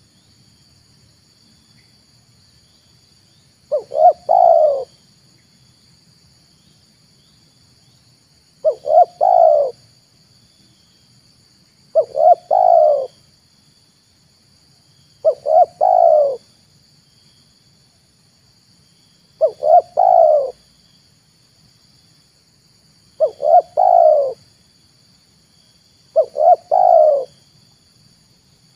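Spotted dove (tekukur) cooing: seven phrases, one every three to four seconds, each a short note followed by a longer coo. A faint steady high-pitched hum runs underneath.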